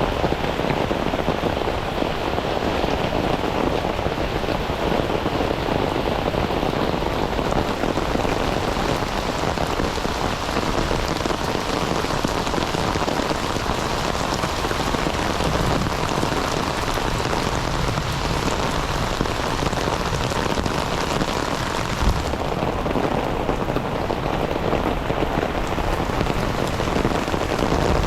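Heavy rain falling steadily, a dense even hiss. About three quarters of the way through there is a single low thump, and after it the hiss sounds duller.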